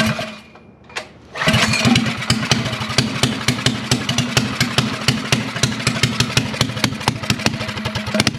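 Minibike's small engine being started: a short burst at the start, then it catches about a second and a half in and runs loudly with rapid, even firing pulses.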